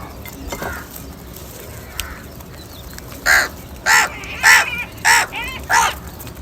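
A crow cawing five times in a quick, even series, starting about halfway through: short, harsh caws about half a second apart.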